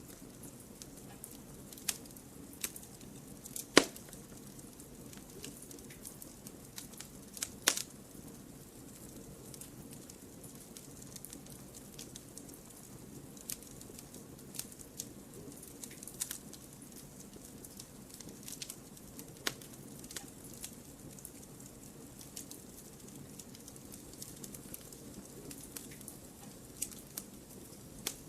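Wood fire in a fireplace crackling steadily, with scattered sharp pops and two louder snaps about four and eight seconds in.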